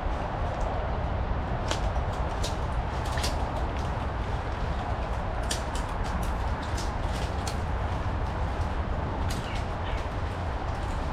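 Footsteps pushing through wet undergrowth, with sharp snaps and crackles of twigs and brush at irregular moments, over a steady low noise.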